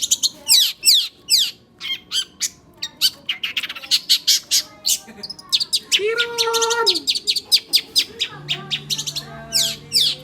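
Oriental magpie-robin (kacer) singing non-stop: a rapid, varied stream of sharp chirps and quick downward-sweeping whistles, with a lower held note about six seconds in.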